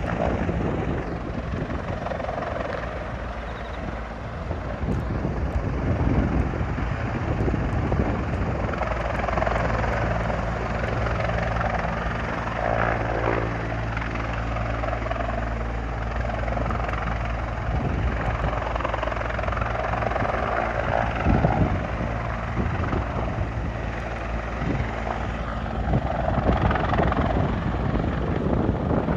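Rescue helicopter's rotor and engine running steadily, with the level swelling and easing slightly.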